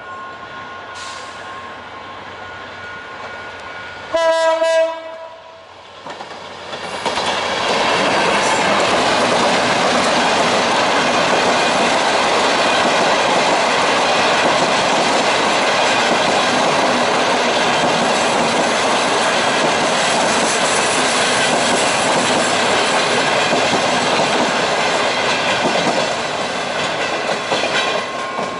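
GT22 diesel locomotive sounds one short horn blast about four seconds in. Then the train passes at speed: a loud, steady rumble and clatter of wheels on the rails for about twenty seconds, easing off near the end.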